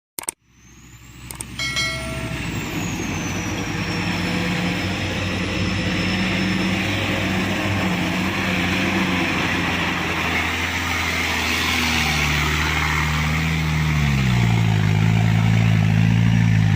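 Diesel engine of an Isuzu Elf dump truck running, its pitch stepping up about twelve seconds in, then dipping and climbing again near the end.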